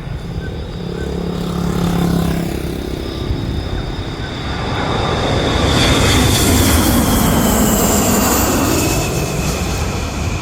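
Boeing KC-135 Stratotanker's turbofan engines passing by, swelling to a peak about six seconds in, with a high whine that slowly falls in pitch as the jet goes past.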